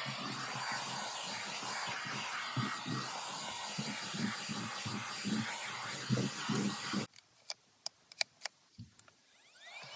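Handheld car vacuum cleaner running with a steady whine and rush of air and uneven low knocks; it cuts off suddenly about seven seconds in, a few clicks follow, and near the end the motor starts winding up again.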